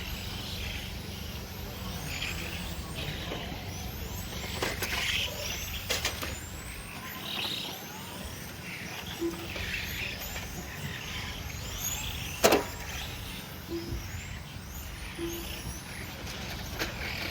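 1/10-scale on-road RC race cars lapping the track, their motors whining up and down in pitch as they accelerate and brake. A few sharp knocks sound, the loudest about twelve seconds in.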